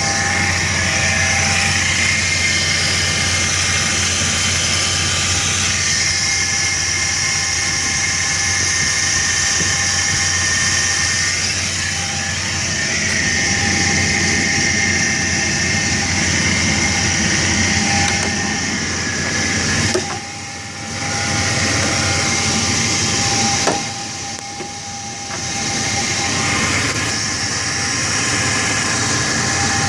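1999 Chevrolet S10's 2.2-litre four-cylinder engine running at idle, with the timing-chain noise that the owner suspects means the timing set needs replacing. The sound dips briefly twice about two-thirds of the way through.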